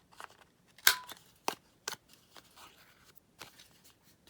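Corner rounder punch snapping shut on card stock: one loud click about a second in with a short metallic ring, then a few lighter clicks and paper rustling.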